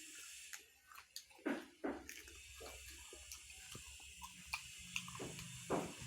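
Close-up eating sounds: wet chewing and lip smacks as a mouthful of pigeon curry and rice is eaten, in short irregular clicks and squelches.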